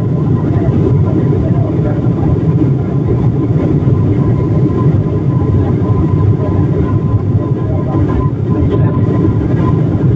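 Steady, loud airliner cabin noise: engine and airflow rumble with a faint steady whine above it.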